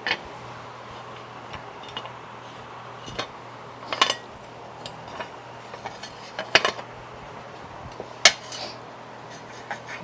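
Scattered metal clinks and knocks of hand tools and small steel parts being handled, at irregular moments with the sharpest about 4, 6.5 and 8 seconds in, over a steady low hum.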